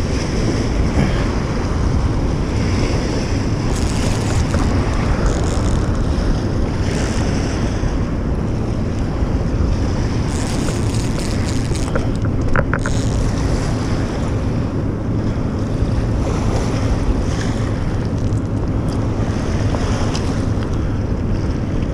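Steady wind buffeting the microphone, a loud, even rush strongest in the low end, possibly with river water beneath it.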